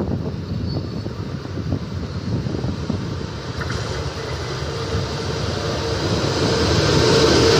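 WAP7 electric locomotive approaching at speed with its train, a rushing noise and a steady hum that grow louder over the last couple of seconds. Wind rumbles on the microphone throughout.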